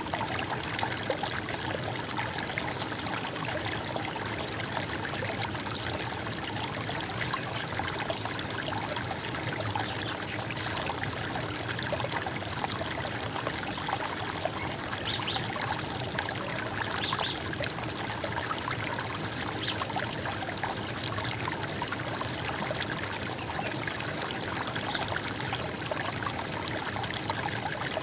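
Running water gurgling steadily, an unbroken stream-like rush and trickle.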